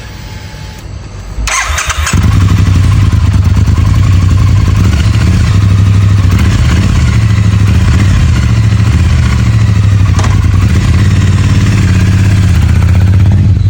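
Triumph T100 parallel-twin motorcycle engine being started: the starter cranks briefly about a second and a half in, the engine catches, and it then idles steadily with a low, even rumble.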